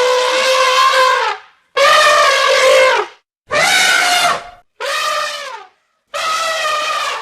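Elephant trumpeting in a series of about five brassy calls, each about a second long with short silent gaps; the first is already sounding and breaks off a little over a second in, and some calls fall in pitch at their end.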